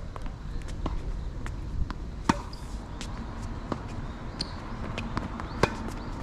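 Tennis ball struck by rackets and bouncing on a hard court during a rally: two sharp hits about three seconds apart, with fainter hits and bounces between, over a low rumble of wind on the microphone.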